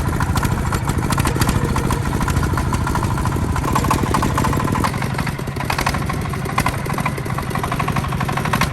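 Tractor engine running steadily, with a fast, even pulse and a strong low hum.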